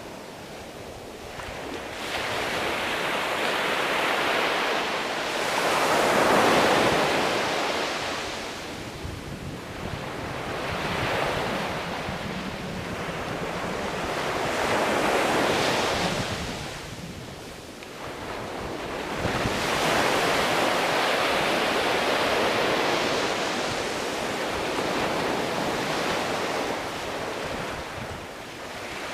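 Ocean waves washing onto the shore, the surf swelling and falling away every few seconds in a steady rolling hiss.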